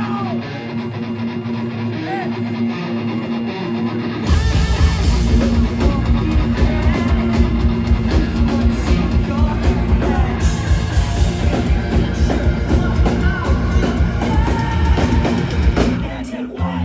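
Live post-hardcore band playing, recorded on a phone. For the first four seconds the guitars play without the low bass and kick drum. Then the full band with bass and drums comes in, and the band drops out briefly near the end.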